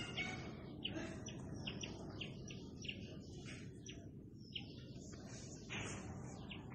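Small birds chirping: a quick run of short, high chirps, several a second, over steady low background noise.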